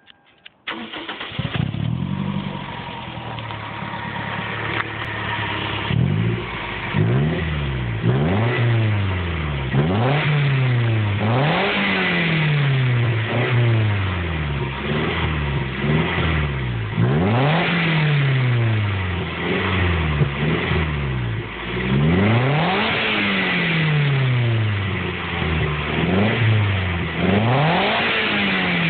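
Toyota MR2 roadster's 1.8-litre four-cylinder engine starting about half a second in, then revved again and again, each rev rising and falling back, about one every one to two seconds, to test its exhaust.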